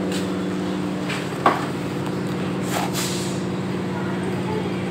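Steady electrical hum inside an electric suburban train coach, with a few brief hisses and one sharp knock about a second and a half in.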